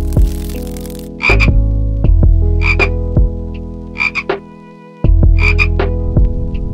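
Tree frog croaking in short double rasps, four calls about a second and a half apart, over background music with steady held notes and a low bass.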